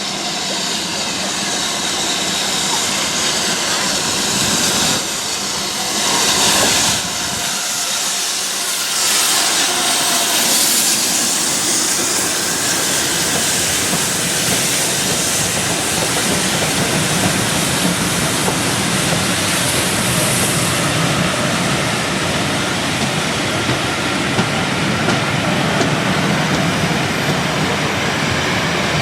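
BR Standard Class 7 'Britannia' steam locomotive running past with its train: a steady hiss of steam over the rolling noise of the coaches, swelling twice in the first third.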